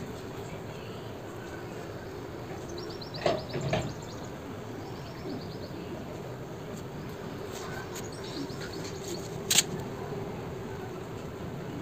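Short, rapid bird trills repeating every few seconds over a steady background hum, with two knocks about three seconds in and a sharp click near the end.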